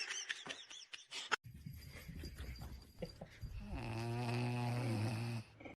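An animal making a low, drawn-out, snore-like sound in the second half, after a few scattered clicks.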